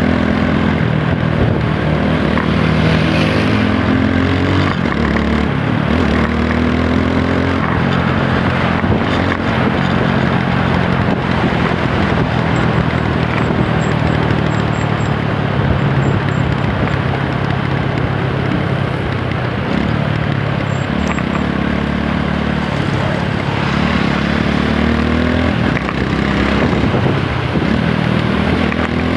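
TVS Apache 160 4V motorcycle's single-cylinder engine running under way, its pitch rising and falling with the throttle, over a steady rush of wind and road noise.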